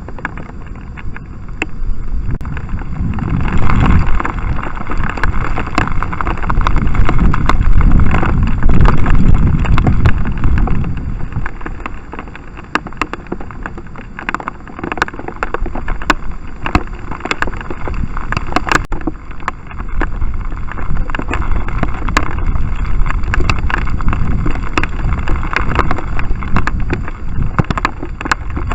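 Storm wind buffeting a trail camera's microphone in gusts, loudest a few seconds in, with scattered sharp ticks like rain drops striking the camera housing.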